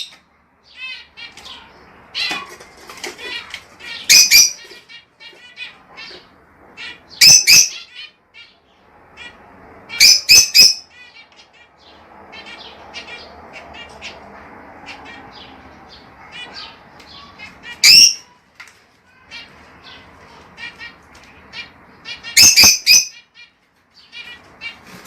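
Lovebirds chirping continuously, with loud, sharp shrill calls breaking in about six times, including a quick double call around the middle. A soft rustling fills a few seconds in the middle.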